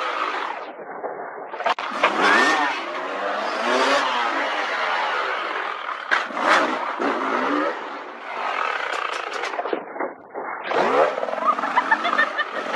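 Motorcycle engines revving up and down in a run of short clips, with a few sharp knocks or clicks, one about two seconds in, one past the middle and a quick series near the end.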